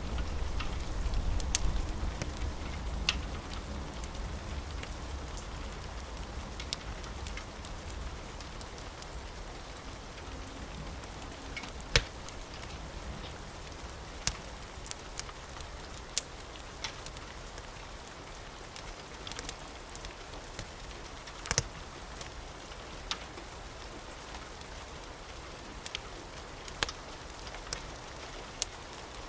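Steady rain with a wood fire crackling and snapping at irregular intervals. A low rumble of thunder dies away over the first few seconds.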